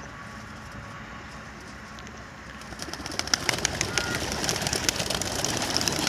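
Racing homer pigeons being released: after a steady low hum, a burst of wing claps and flapping starts about three seconds in and grows louder as the birds take off together.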